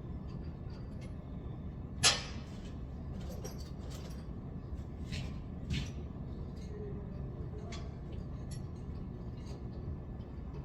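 One sharp knock about two seconds in and a smaller one near the middle, with scattered light clicks and taps, over a steady low rumble.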